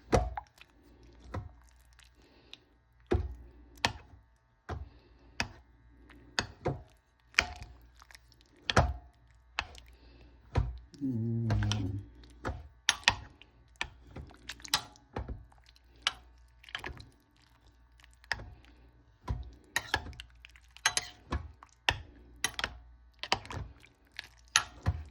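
Irregular clicks and knocks of a utensil against a crock pot while cooked chicken is being broken up and shredded, roughly one or two knocks a second.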